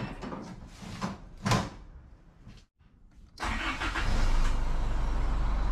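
A few thumps and rustles, then an Isuzu pickup's engine starts on the key about three and a half seconds in and settles into a steady idle with a deep rumble.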